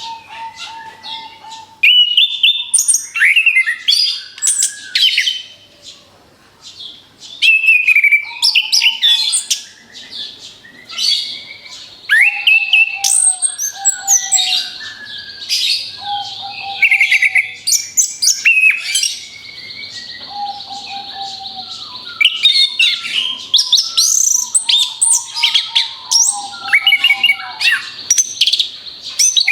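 Orange-headed thrush (anis kembang) singing in rapid, varied bursts of whistles, chirps and trills, with short lower whistled notes between the phrases. A steady high buzz runs behind the song through the middle stretch.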